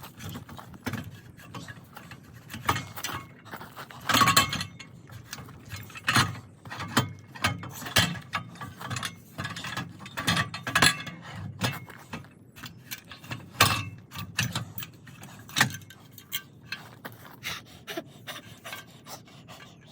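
Hand tools working on a car's exhaust pipework: irregular metallic clicks, taps and ratchet-like clicking, with a few louder clanks of metal on metal.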